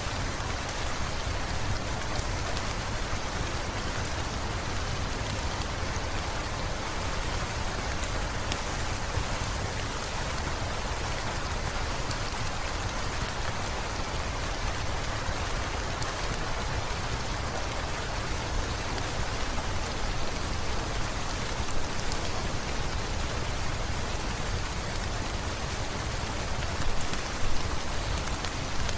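Steady rain falling, with scattered sharp drop ticks over a constant low rumble, and a few louder moments near the end.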